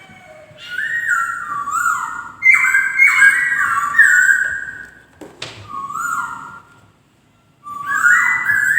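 Laughingthrush (poksay) singing loud, clear whistled phrases that step up and down in pitch, with a short sharp sound about five and a half seconds in and a brief pause before the song resumes near the end.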